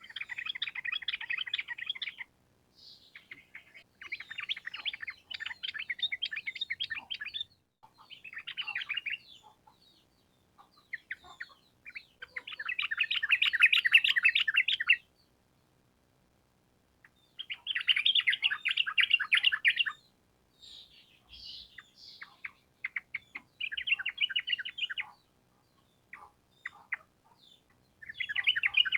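Yellow-vented bulbul (trucukan) singing in bursts of rapid chattering notes, each one to three seconds long, repeated with short pauses.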